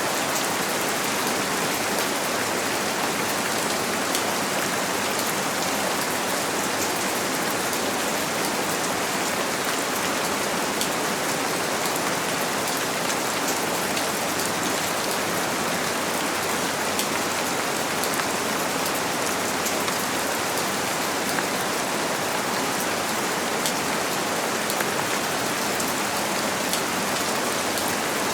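Steady rain falling on a window, blended with white noise: an even, unbroken hiss with faint ticks of single drops.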